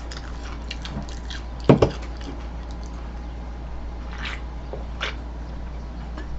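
Eating sounds: quiet chewing and mouth clicks, with one sharp knock a little under two seconds in and a couple of lighter clicks later, over a steady low hum.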